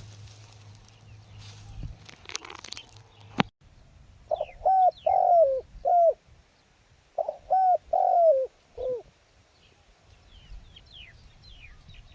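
A decoy dove cooing in two phrases of four or five deep notes, each note dropping at its end, with small birds chirping faintly behind. A rustle and a sharp click come before the cooing starts.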